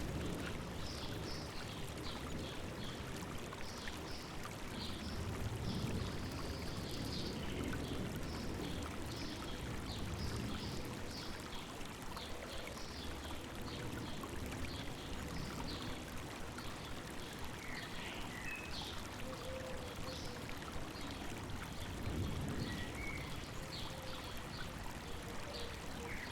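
River water babbling steadily over rocks, with many short, high bird chirps scattered over it.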